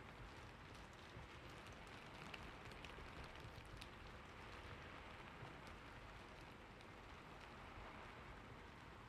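Faint, steady rain with scattered drops ticking.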